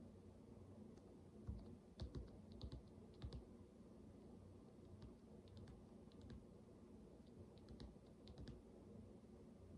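Soft little clicks and taps of plastic micro building bricks being handled and pressed together. They come in two loose clusters of quick light clicks with pauses between.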